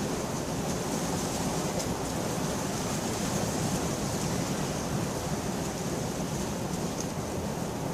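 Steady rain falling, an even hiss with no single thunderclap standing out.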